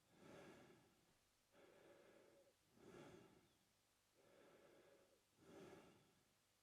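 A man breathing slowly and steadily through his mouth, faint. Each breath in and out takes about two and a half seconds, with a softer, longer breath alternating with a shorter, stronger one.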